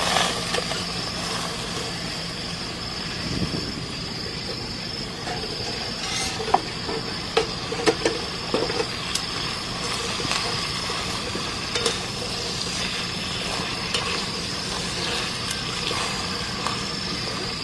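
Food sizzling in a pan as it is stirred, with a few sharp knocks of a utensil against the pan in the middle.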